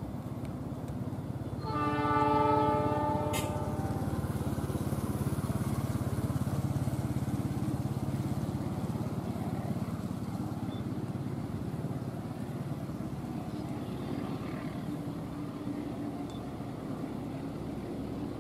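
Diesel train horn sounds one long blast of about two seconds a couple of seconds in. A diesel locomotive hauling a passenger train rumbles steadily as it approaches.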